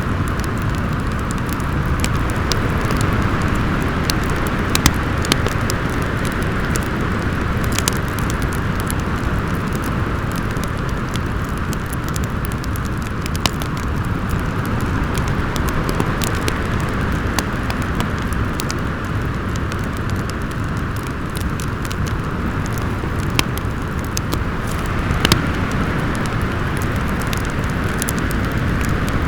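Storm wind blowing steadily, swelling and easing slowly, with a wood fire crackling over it in scattered sharp pops, a few of them louder.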